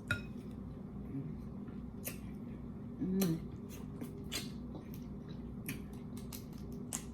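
Close-up eating sounds: scattered wet clicks and smacks as saucy shrimp are handled and chewed, with a short hum of the mouth about three seconds in, over a steady low room hum.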